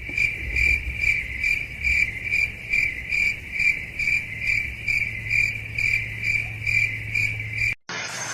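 High, insect-like chirping, repeated evenly about two and a half times a second over a low steady hum, cutting off suddenly near the end.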